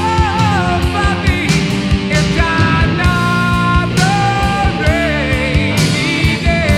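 Heavy metal band recording: distorted rock band with drums and bass, a melodic lead line bending and holding notes over it.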